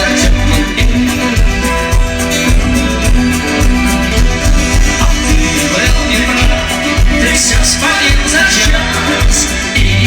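Rock band music with a steady beat, an instrumental passage between sung lines.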